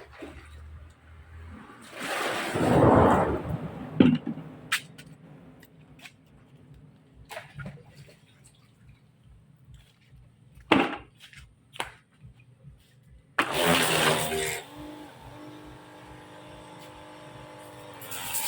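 Water rushing and splashing into a washing machine tub in two spells, with scattered knocks and clicks between them. Faint music comes in near the end.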